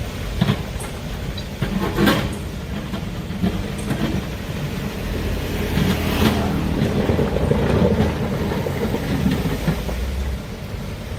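Heavy excavator at work, its diesel engine running steadily under several sharp metallic clanks and knocks, the loudest about two seconds in and about six seconds in.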